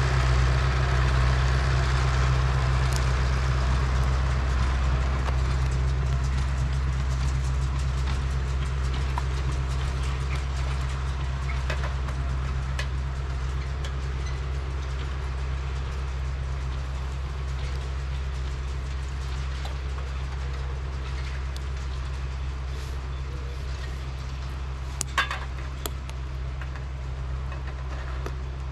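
A heavy engine running steadily with a deep hum, slowly growing fainter. Two sharp clicks near the end.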